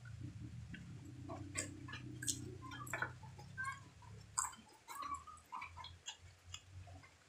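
Close-up mouth sounds of a person chewing boiled chicken: irregular wet clicks and smacks, a few sharper than the rest. A low steady hum underneath fades out about three seconds in.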